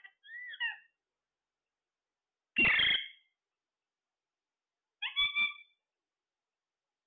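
Parrot giving short, pitched calls in three bursts: a brief chirping call near the start, a louder, harsher squawk about two and a half seconds in, and a shorter call about five seconds in.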